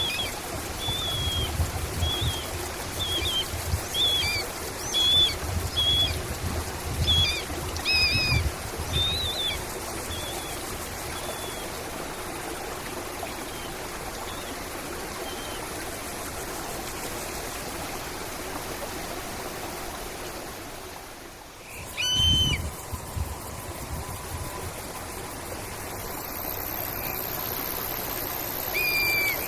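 Small birds chirping in quick repeated notes over a steady trickling stream. The chirps thin out midway. After a brief drop just past two-thirds of the way, a different bird gives a few short calls that slide down in pitch.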